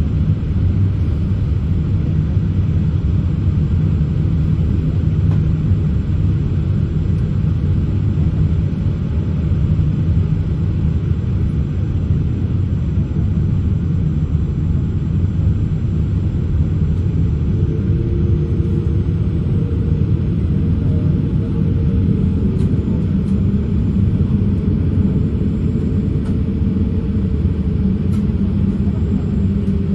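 Cabin rumble of a Boeing 787-8's Rolls-Royce Trent 1000 engines running at idle after start, heard from a seat inside the cabin. A faint steady hum joins in a little past halfway through.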